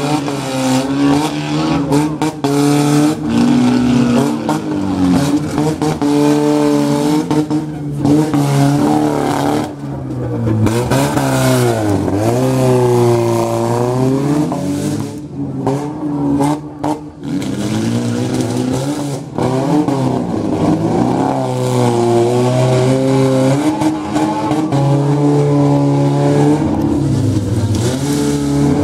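Demolition derby cars' engines revving hard, their pitch falling and rising again, with sharp crashes of cars hitting each other now and then.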